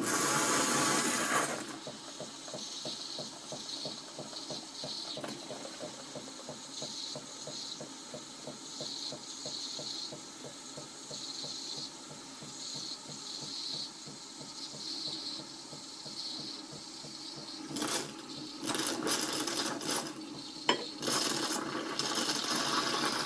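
Jura C9 automatic coffee machine frothing diluted cream through its milk frother: a steady pumping rattle under hissing steam, with a loud burst of steam at the start. The hissing grows louder again near the end as the cup fills with foam.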